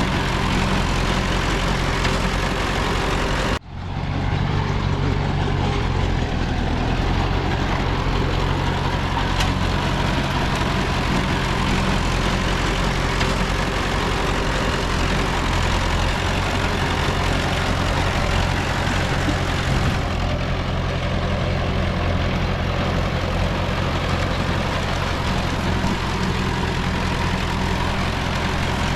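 Heavy diesel engine of earthmoving machinery running steadily, with a brief drop-out about three and a half seconds in.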